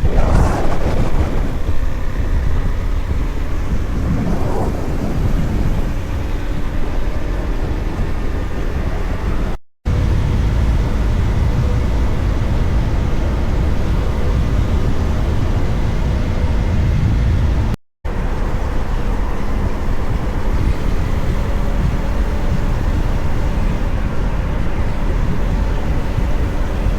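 Motorcycle riding noise: heavy wind rumble on the microphone over the running engine of a Husqvarna Svartpilen 401, in three stretches cut together, with a couple of brief rising-and-falling engine or passing-traffic sounds in the first few seconds.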